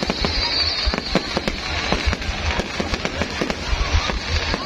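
Fireworks going off in a dense, irregular run of bangs and pops, several to the second.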